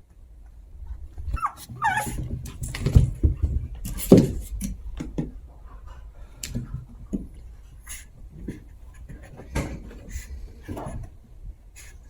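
Two Chihuahua puppies playing: short squeaky yips around two seconds in, amid irregular scuffling and small knocks.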